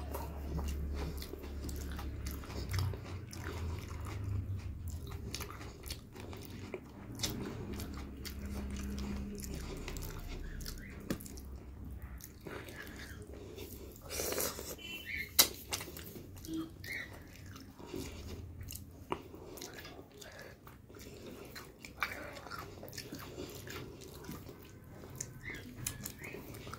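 A person chewing and biting a mouthful of rice and chicken curry eaten by hand, with wet mouth clicks and smacks. One sharp click about fifteen seconds in is the loudest sound. A low hum runs under the first ten seconds.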